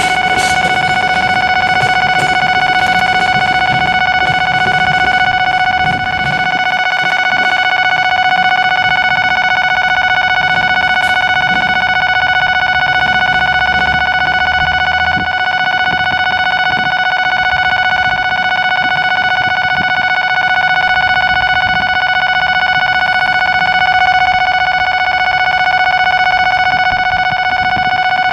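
A steady, unbroken high-pitched tone with overtones runs throughout. Under it, the low rumble of a departing tank-car freight train fades away over the first several seconds.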